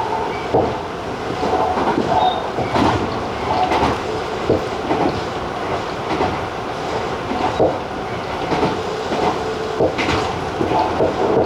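Tobu TJ Liner electric train running at speed: a steady rumble of wheels on rail, with irregular clicks and knocks as the wheels pass over rail joints.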